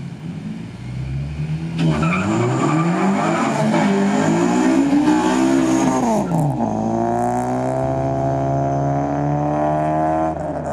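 Car engine accelerating hard under full throttle: the pitch climbs through one gear, drops sharply at an upshift about six and a half seconds in, then climbs again more slowly in the next gear and starts to drop near the end.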